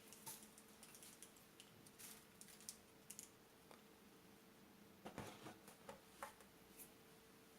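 Faint, scattered scrapes and taps of a spatula against a mixing bowl while folding macaron batter (macaronage), the clearest cluster about five seconds in, over a faint steady hum.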